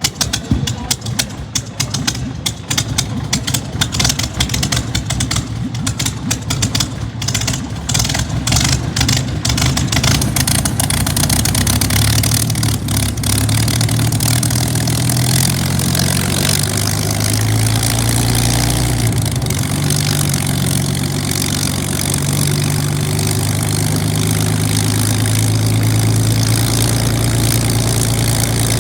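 Spitfire's V12 piston aero engine starting: it fires unevenly for about the first ten seconds, then catches and picks up into smooth, steady running.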